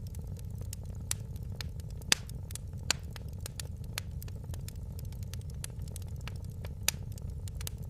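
Wood fire burning in a fireplace: a steady low rumble with frequent small irregular crackles and a few sharper pops, about two and three seconds in and again near the end.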